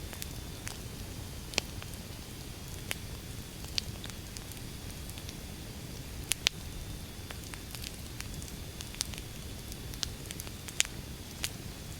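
Wood fire burning: a steady low rumble of flame with irregular sharp crackles and pops as the logs burn, about one a second, two of them louder.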